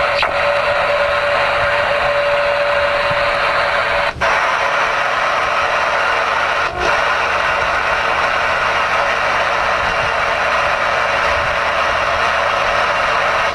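Steady static hiss from the Ranger RCI-69FFB4 ten-meter radio's speaker, with a whistling tone for the first four seconds. About four seconds in, the hiss drops out briefly and comes back brighter, and it dips once more shortly after.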